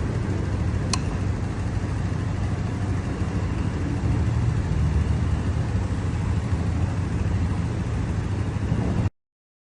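Steady low vehicle rumble, with a single sharp click about a second in.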